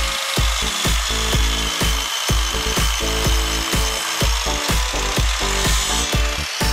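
Electric miter saw running and cutting through wood, a steady high whine with rasping hiss, over background music with a regular beat.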